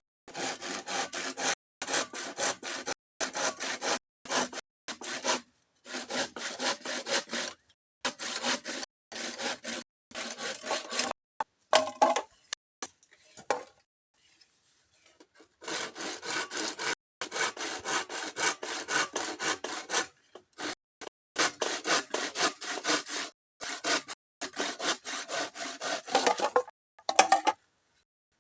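Hand saw cutting through bamboo in runs of quick back-and-forth strokes. There are short breaks between runs and a longer pause near the middle.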